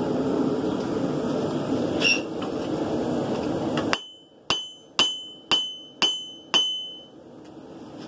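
Hand hammer forging a hot san mai steel blade on an anvil: a steady rushing noise with a single clink about two seconds in, then about four seconds in, six hammer blows about half a second apart, each with a brief high ring.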